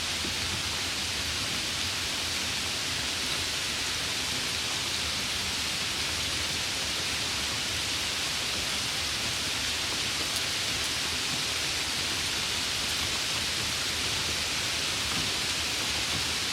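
Steady summer rain: a dense, even hiss with no separate drops or thunder standing out.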